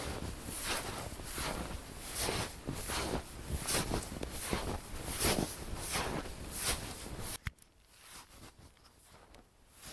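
Footsteps in snow at a steady walking pace, about two steps a second, stopping abruptly about seven and a half seconds in.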